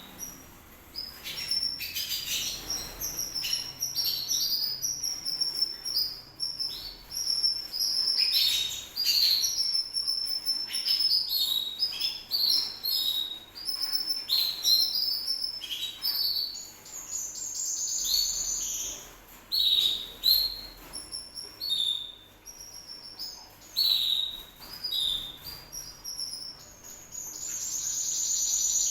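Canary singing: a long, varied song of quick chirps and rapid repeated trills, with a longer high trill near the end.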